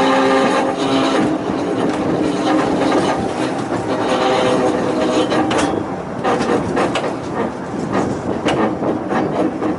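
Volks Electric Railway car running along the narrow-gauge track: a steady electric whine over rumbling wheels, giving way about halfway through to repeated clicks of the wheels over rail joints.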